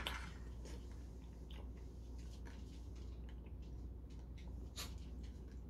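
A person chewing a mouthful of soft golden kiwi, with faint wet mouth clicks and one sharper click near the end.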